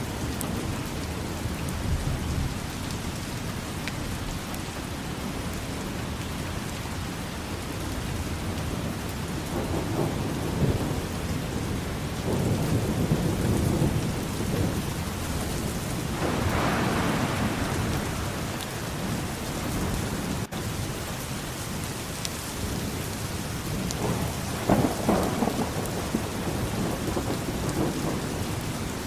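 Steady rain falling, with low rumbles that swell and fade several times: about a third of the way in, around the middle, and again near the end.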